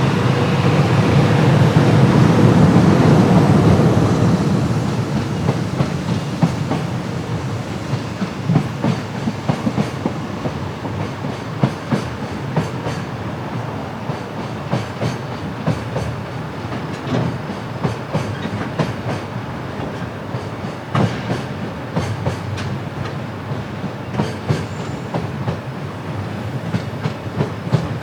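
Freight train passing close by. It is loudest in the first few seconds, then a long run of wagons rumbles past with wheels clicking over the rail joints.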